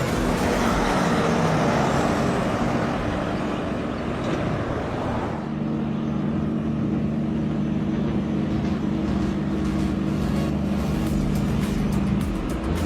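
Heavy vehicle engine running: a broad rushing noise at first, then from about five seconds in a steady low engine drone.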